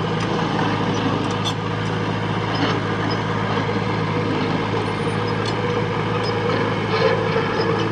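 Heavy diesel engine running steadily at an even speed, with a few faint clicks over it.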